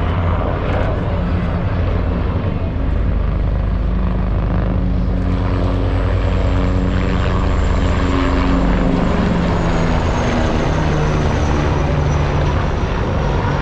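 Military helicopter flying past, its rotor and turbine running steadily with a thin high whine that drops in pitch partway through as it passes.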